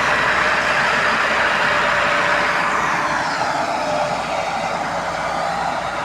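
Massey Ferguson 385 tractor's diesel engine running loudly under load, easing slightly with a falling note about halfway through.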